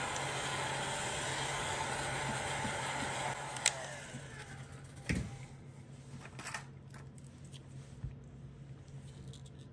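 Steady rushing air of a hot-air blower that dies away about four seconds in, followed by a few sharp clicks and light taps of tools against the phone as the screen is pried.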